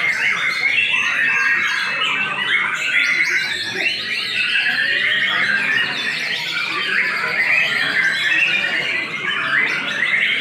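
Murai batu (white-rumped shama) song: an unbroken stream of fast, overlapping whistles and chattering phrases.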